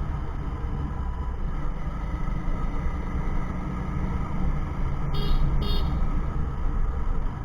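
Steady low rumble of wind and road noise from riding a motorbike, with two quick high-pitched horn toots about five seconds in.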